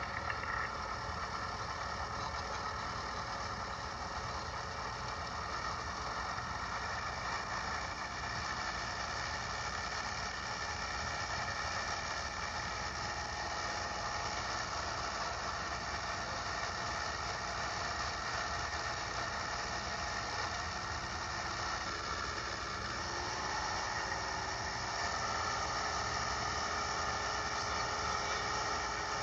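Steady drone of a light aircraft's engine and propeller in flight, heard from inside the cabin. The engine note shifts slightly and gets a little louder about 24 seconds in.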